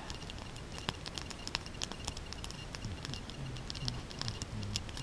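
Campfire crackling, with irregular sharp pops and ticks.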